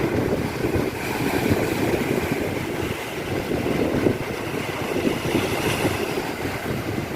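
Wind buffeting the microphone, with the sea washing against the seafront behind it in a steady rough rush.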